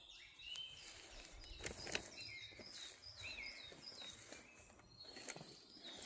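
Faint woodland birdsong: several birds giving short, repeated chirping phrases, with a few soft knocks of footsteps on the forest floor around two seconds in and again near five seconds.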